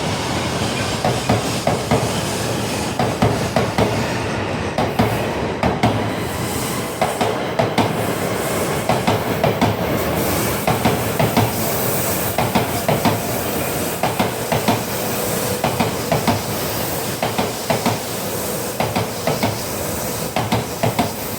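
Coupled E6 and H5 series shinkansen pulling out of the station, wheels clicking and clunking over the rail joints and points in a steady run, with a rising hiss from the moving train.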